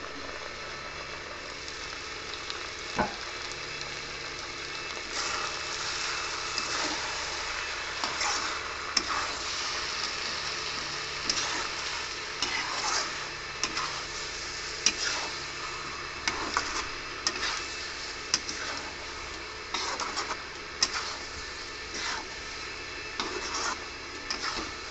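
Pork pieces frying and sizzling in a kadhai, stirred with a steel spatula. There is a steady sizzle with one sharp click about three seconds in, then frequent irregular scrapes of the spatula against the pan from about five seconds in.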